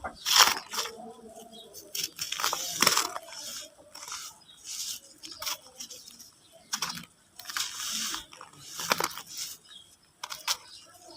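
Mud being crumbled, in a series of short crackly bursts with brief pauses between them.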